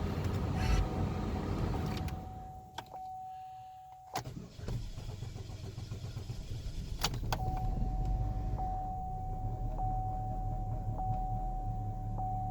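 2009 Chevy HHR's 2.4-liter four-cylinder engine on a cold start after sitting overnight, hard to start: it cranks for about two seconds without catching, then after a click about four seconds in it fires with a touch of throttle and settles into a steady idle. A steady high tone, like a dash warning chime, runs alongside.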